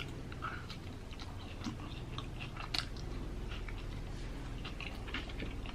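A person chewing food with the mouth close to the microphone: a string of small, quick wet clicks and soft crunches.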